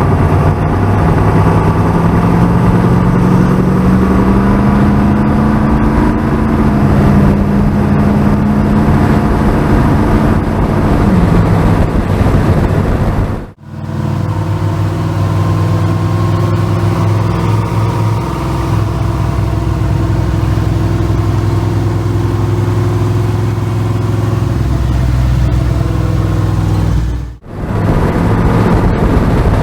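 Car engine running, its pitch rising slowly for several seconds and then holding steadier; the sound breaks off abruptly twice, as at cuts between separate recordings.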